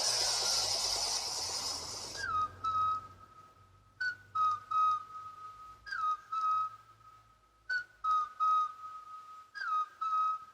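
Sound effect from a hobby model's built-in sound unit: a hiss that cuts off about two seconds in, then a short whistled figure repeating about every two seconds. Each figure is a quick downward slide followed by two steady tones.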